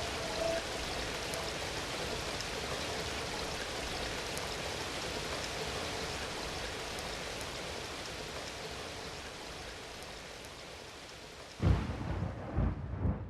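Steady rain falling and slowly fading, then a low thunder rumble breaks in near the end.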